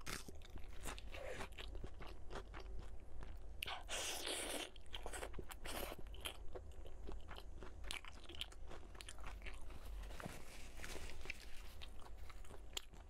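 Close-miked chewing and crunching of food in the mouth, with many small wet clicks and smacks. There is one loud, crisp crunch about four seconds in and a shorter one about two seconds later.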